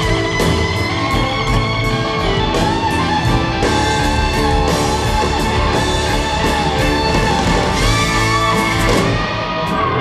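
Rock band playing an instrumental passage live, with a sustained guitar melody over bass and drums.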